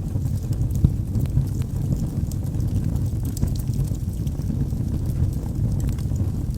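Log fire burning in a fireplace: a steady low rumble of flames with scattered sharp crackles and pops from the wood, one louder pop about a second in.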